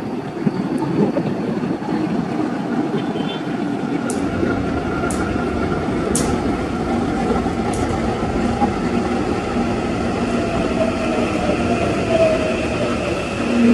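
Electric commuter train running, with a steady rumble and faint whining tones. A few sharp ticks come between about four and eight seconds in, and a whine glides in pitch near the end.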